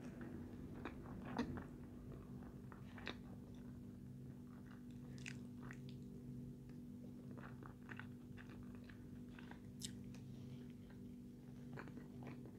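Close-miked chewing of a mouthful of salmon, rice and fries, with scattered small wet mouth clicks and smacks, over a faint steady hum.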